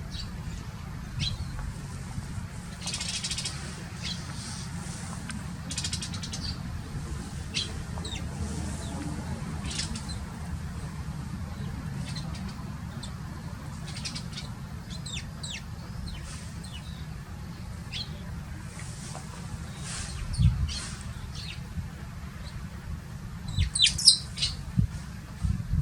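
Eurasian tree sparrows chirping in short, scattered calls over a steady low rumble, with a couple of dull thumps near the end.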